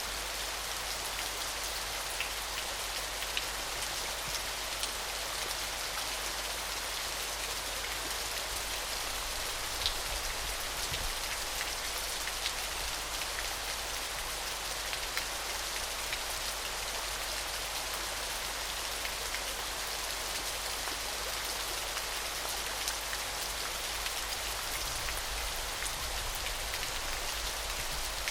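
Small waterfall splashing steadily: a bright, even hiss of falling water, with single drips and splashes standing out now and then.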